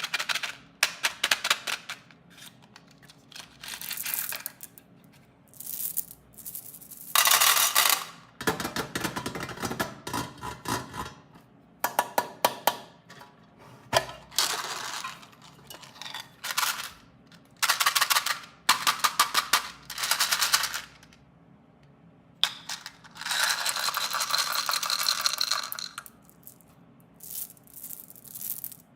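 Snack packaging being unwrapped and handled: plastic wrappers crinkling in a string of short bursts with quiet gaps between.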